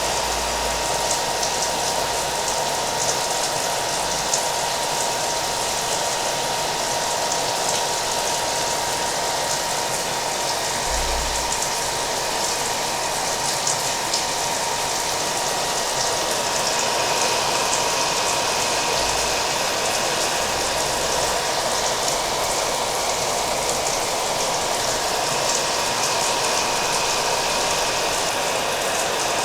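Hair dryer blowing steadily, with a thin steady whine from its motor, mixed with the patter of rain.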